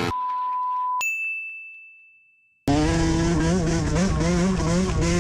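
A steady beep for about a second, then a single bright ding that rings and fades away. About two and a half seconds in, a dirt bike engine cuts in loudly, running with its pitch rising and falling as the throttle is worked.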